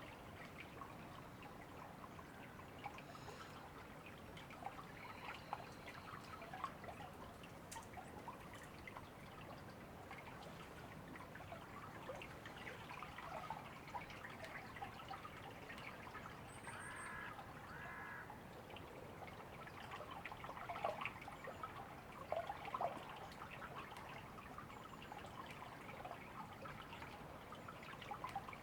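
River water running steadily, faint, with scattered bird calls; two short calls come close together a little past the middle.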